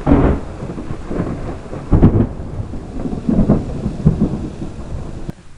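Thunder from a nearby lightning strike: a loud crack right at the start, then rolling peals with another loud burst about two seconds in, cutting off abruptly near the end.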